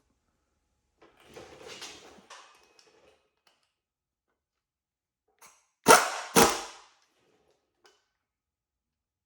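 A dog barking twice in quick succession, loud and sharp. Before it there is some fainter rustling or handling noise.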